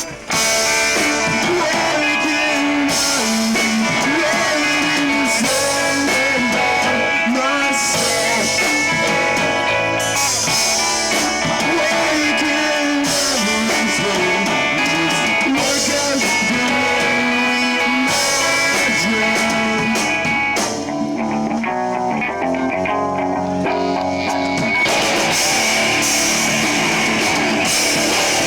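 A live rock band playing loud electric guitar and drums, with the cymbals dropping out for a few seconds about twenty-one seconds in.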